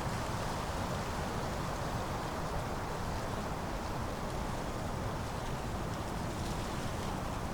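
Steady autumn wind blowing, with a faint rustle of dry leaves.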